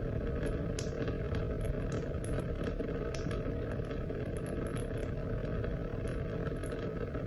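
Steady rain: a dense, even wash of water noise with many small scattered drop ticks over it.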